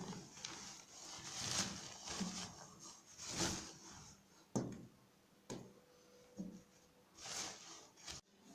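Household handling sounds: several soft rustling swishes and a few sharp knocks or clicks.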